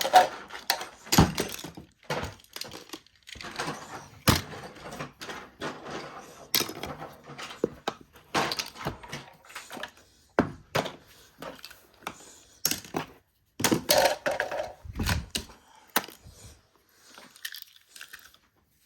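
Small objects being handled and set down: irregular knocks, clatters and thuds with rustling in between, going quieter near the end.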